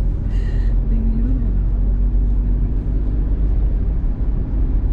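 Car road noise while driving: a steady low rumble from the tyres and engine, with a short hiss just under a second in.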